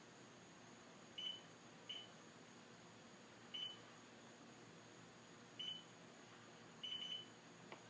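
Kawasaki STX-15F jet ski's warning beeper sounding five short high beeps at uneven intervals, the last one drawn out, while the battery is disconnected and the ignition is off. The owner takes this for the sign of a bad voltage regulator.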